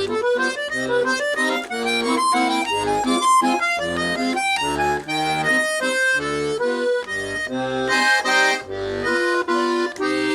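Accordion playing a waltz: a melody with quick runs over alternating bass notes and chords, ending on a held chord near the end.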